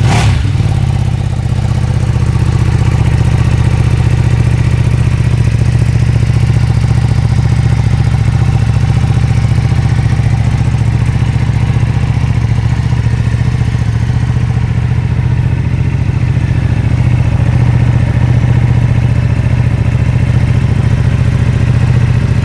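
Ducati Streetfighter V2's 955 cc L-twin engine idling steadily through its stock exhaust, settling right at the start from a brief blip of the throttle.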